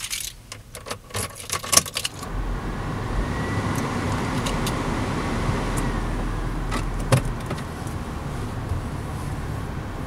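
Car keys jangle and rattle for about two seconds, then the car's engine starts and runs steadily at idle. A single click comes about seven seconds in.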